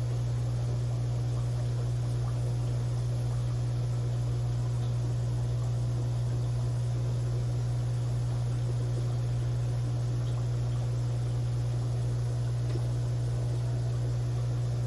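Steady low electrical hum with a faint even hiss over it, unchanging throughout.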